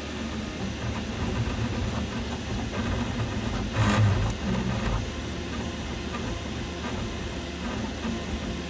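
Qidi Q2 3D printer running, with an irregular low mechanical rattle that the owner puts down to a loose print head; a louder rattling burst comes about four seconds in.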